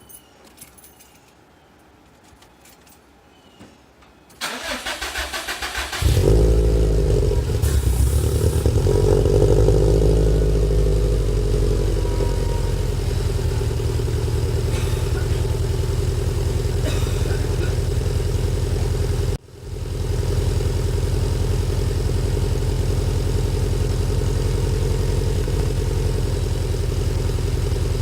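Subaru WRX STi turbocharged flat-four engine cranking for about a second and a half and catching, running louder at first and then settling into a steady idle, with the uneven boxer rumble of its stock unequal-length headers. The sound drops out for a moment about two-thirds of the way in.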